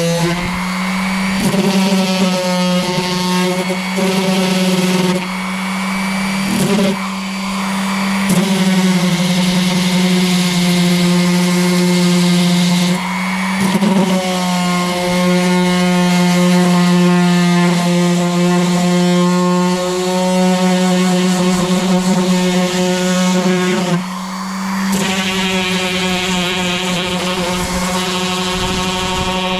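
Electric power sander running with a steady hum, its sound dipping briefly several times as it works the wood.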